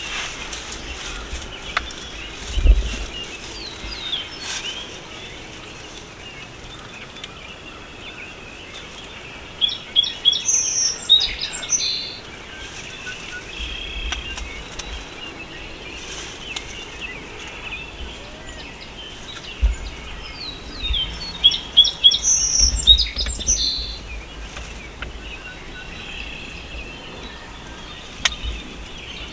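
A songbird sings the same short, high, quick song twice, about ten seconds apart, over faint chirping from other birds.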